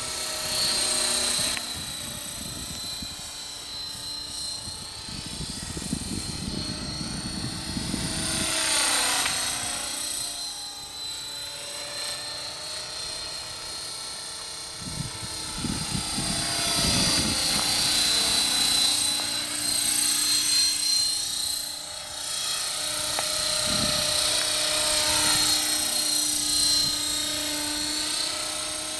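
Electric radio-controlled helicopter (eSky Belt CP with a four-blade rotor head) in flight, its rotor and motor whine gliding up and down in pitch and swelling in loudness several times as it manoeuvres and passes.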